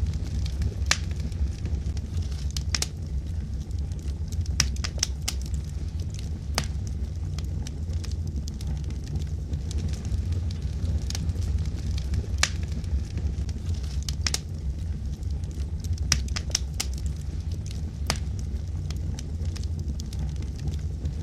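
Wood logs burning in a fireplace: a steady low rumble of the fire with irregular sharp crackles and pops.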